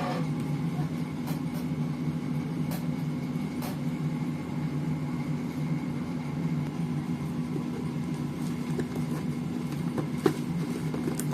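A steady low hum, with a few short light clicks and taps of the air filter and its packaging being handled.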